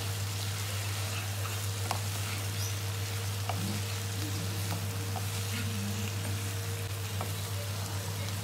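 Chicken pieces, onion and capsicum sizzling in oil in a non-stick pot as a wooden spatula stirs them, with a few light knocks of the spatula. A steady low hum runs underneath.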